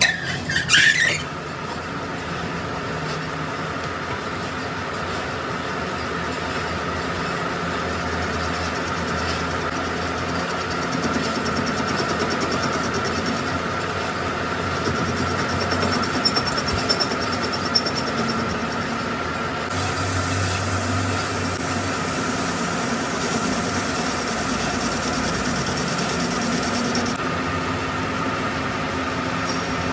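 A workshop machine running steadily with a constant whine. A brief loud screech falls in pitch right at the start, and a hiss joins in from about twenty seconds in for some seven seconds.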